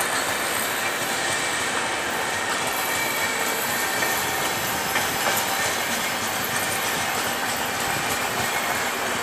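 LHB passenger coaches of the Shatabdi Express running past on the rails: a steady wheel-and-rail rush with an odd faint click.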